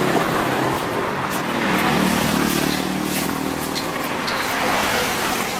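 An engine running steadily, with scattered sharp clicks over it.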